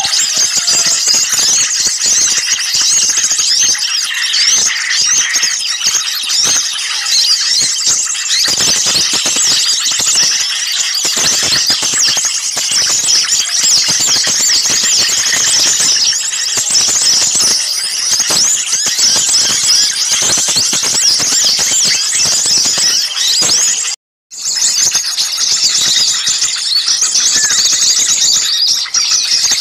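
Dense, high-pitched chorus of many small birds chirping and scolding at once, a bird-lure recording made to draw small birds in. It breaks off for a moment about 24 seconds in, then carries on.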